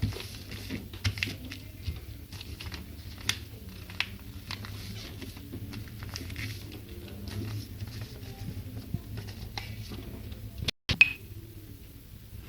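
A sheet of paper being handled, folded and creased by hand into an origami plane: irregular soft rustles and light taps. The sound cuts out briefly near the end and comes back with a sharp click.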